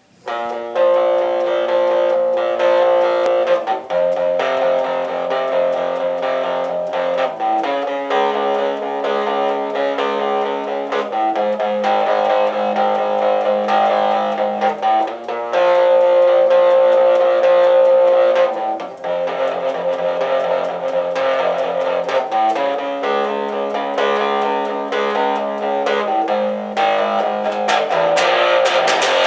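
Instrumental guitar intro of a rock song: held, ringing chords that change every three to four seconds. Sharp percussive strokes join near the end.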